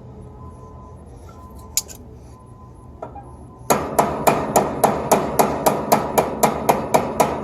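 Hammer tapping rapidly on metal, about four sharp ringing strikes a second, starting about halfway in after a couple of single clicks.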